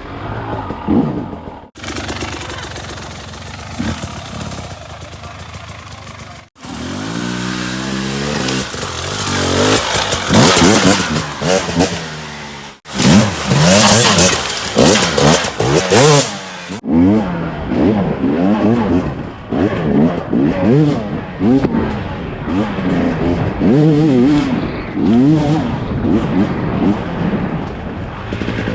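Dirt bike engine revving hard on trail riding, its pitch climbing and dropping over and over with the throttle. The sound breaks off and changes abruptly several times, in separate joined clips.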